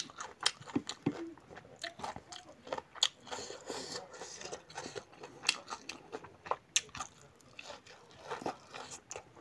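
A person chewing and biting food close to the microphone: irregular sharp crunches and clicks, some louder bites standing out among quieter chewing.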